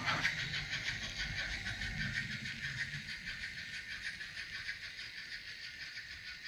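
Oxford Rail OO gauge Dean Goods model steam locomotive running with its sound fitted: rapid, steady steam chuffs and hiss from its onboard speaker over its mechanism's noise, fading gradually as it runs away.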